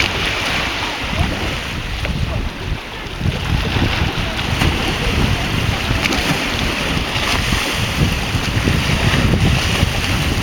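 Small waves of the Sea of Azov splashing on the shore, with wind gusting across the microphone.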